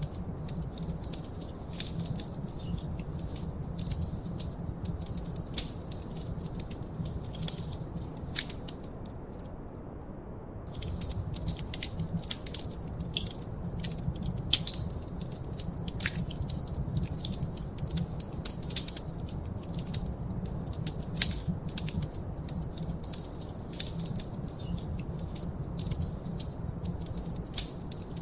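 Wood fire crackling in a fireplace: irregular sharp pops and snaps over a low rumble of burning, with a brief lull about ten seconds in.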